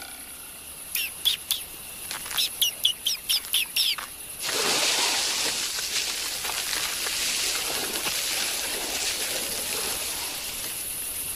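Cartoon sound effects: a quick run of short, high chirps, then from about four and a half seconds in a steady rushing noise.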